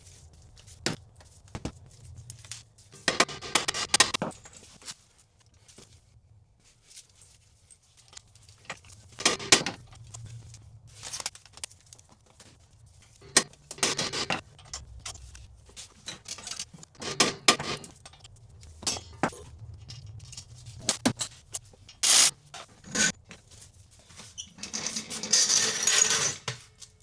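Metal tools and car parts clinking, clanking and scraping in irregular knocks, with a few longer noisy bursts of about a second, as a Mazda 6's CV axle and front suspension are reassembled by hand.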